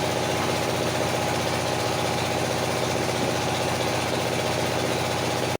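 Engine of a circular sawmill running steadily at a constant speed with an even, rapid pulse, cutting off suddenly at the end.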